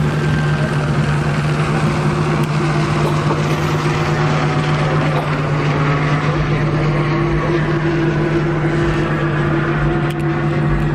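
Steady vehicle engine drone with a constant low hum, holding the same pitch throughout.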